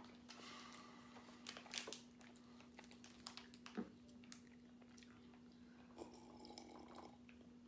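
Faint chewing of soft Gushers fruit snacks: scattered small wet clicks over a low steady hum.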